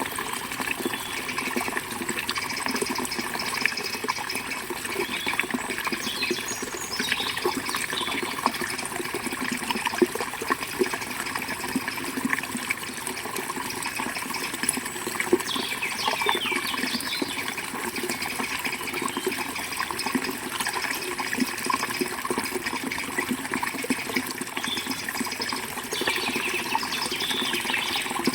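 River water flowing and burbling steadily, with birds chirping now and then.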